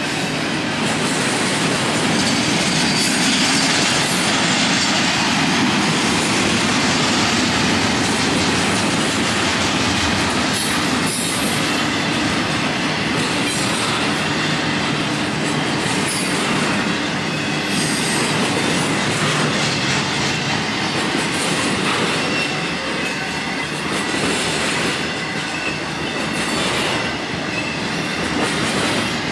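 Union Pacific double-stack intermodal train rolling steadily past: a continuous rumble of steel wheels on rail, with high wheel squeal running through it. It eases off slightly near the end as trailer cars go by.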